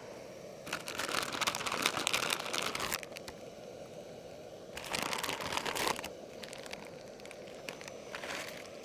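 Plastic noodle packaging crinkling and being torn open in two bouts, over a steady low hiss.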